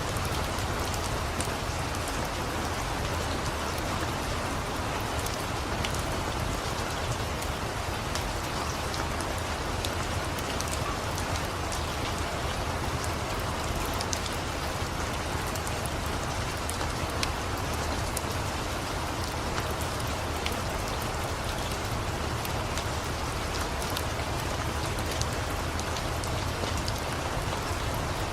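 Steady rain falling: an even, unbroken hiss with scattered small sharp ticks and a steady low rumble beneath.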